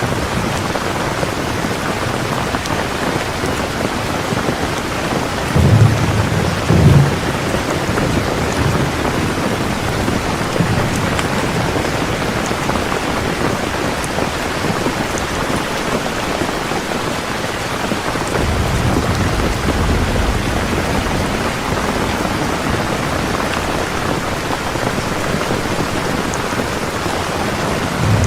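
Steady rain falling, an even hiss of drops. Two short low rumbles come about six seconds in, and a longer, softer low rumble about two-thirds of the way through.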